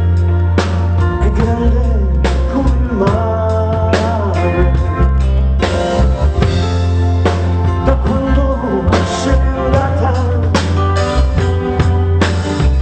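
Live pop band playing an instrumental passage, with a drum kit keeping a steady beat under guitar and heavy sustained bass notes.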